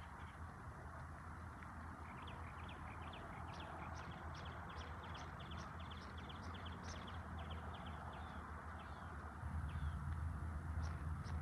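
Small birds chirping in quick series of short, high notes over a steady faint hiss. A low rumble underneath gets louder near the end.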